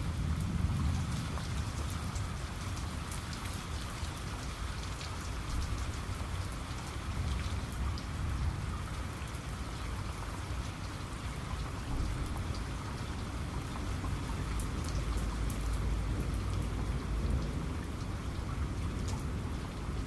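Steady rain, with individual drops ticking sharply on a surface, over a low rumbling of distant thunder that swells slightly near the start and again about three-quarters of the way through.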